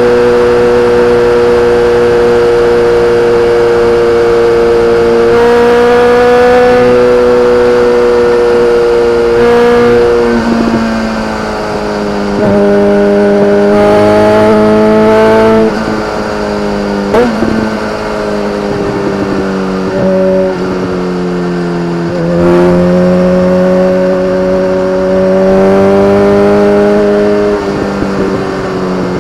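BMW K1300R's inline-four engine through an Akrapovič exhaust, running loud and continuous. Its pitch holds steady at first, then repeatedly climbs slowly and drops back, with louder pulls about 12 and 22 seconds in.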